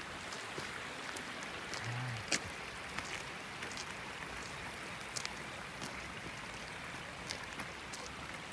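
Mountain valley stream running steadily, with scattered sharp ticks and clicks over the rush of water.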